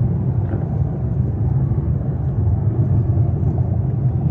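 Steady low rumble of road and engine noise inside the cabin of a car moving at freeway speed.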